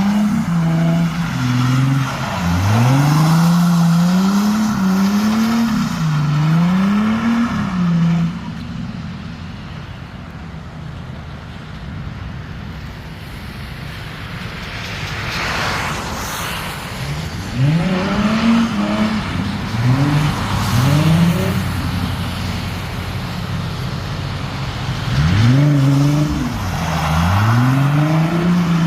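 Ford Mustang V6 engine revving hard in repeated bursts, its pitch climbing and dropping with each one as the car slides on a wet road. About a third of the way in the revving stops for several seconds, leaving a hiss, then starts again.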